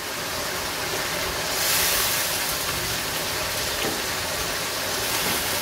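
Chicken pieces in a spiced curry masala sizzling in a wok as they fry, stirred with a wooden spatula; the sizzle grows louder about a second and a half in.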